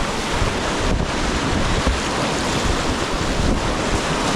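Whitewater rapids rushing around a kayak, a steady loud wash of water with wind buffeting the microphone.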